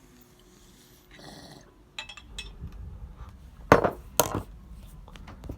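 Rustling and scattered small clicks, then two loud knocks about half a second apart.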